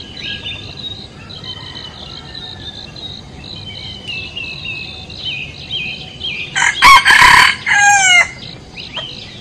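Small birds chirping in a quick, repeating pattern, with one loud, longer bird call lasting over a second about seven seconds in.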